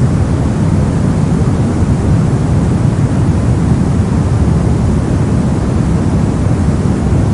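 Steady synthetic soft noise, a white-noise track for sleep, heavy in the bass like a deep, even rushing hiss, with no changes.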